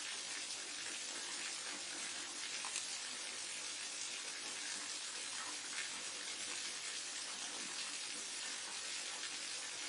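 Small forest waterfall and mountain stream running, a steady even rush of falling water with small splashes flickering through it.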